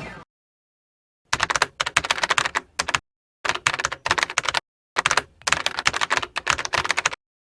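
Rapid computer-keyboard typing clicks in three runs, each one to two seconds long, with dead silence between them.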